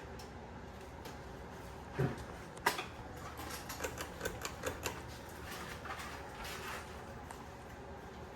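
A steady low hum, likely the Hunter Coastal Breeze ceiling fan running. About two seconds in there is a thump, then a sharp click, then a quick run of light clicks and taps for about two seconds.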